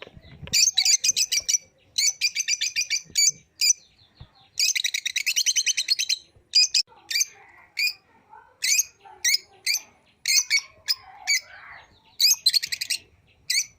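Pet lovebirds chirping: runs of rapid, high-pitched chirps about a second long, broken up by single chirps.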